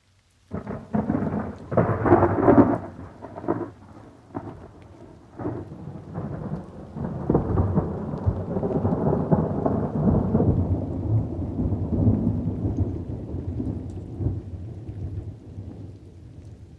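Thunder with rain: a sudden crackling clap about half a second in, then a long rolling rumble that swells again around the middle and slowly fades.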